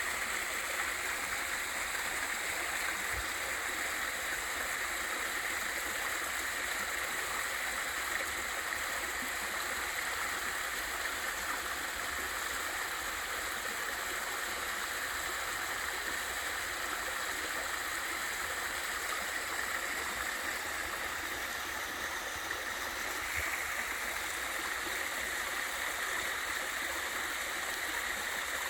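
Small waterfall and valley stream, water rushing and splashing in a steady flow.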